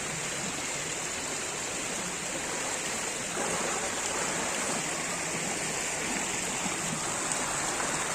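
Floodwater rushing steadily, growing a little louder about three and a half seconds in.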